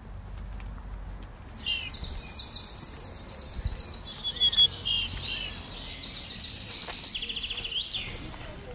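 A bird singing in rapid high trills and chatter, starting about a second and a half in and stopping near the end, over a low steady background rumble.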